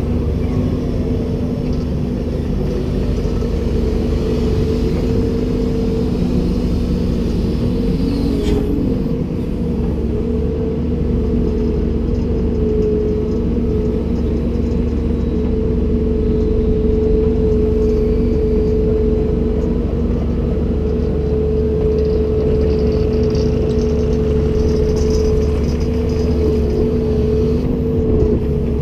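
Komatsu PC290-10 excavator's diesel engine running steadily, with a constant droning tone whose pitch wavers briefly about eight seconds in.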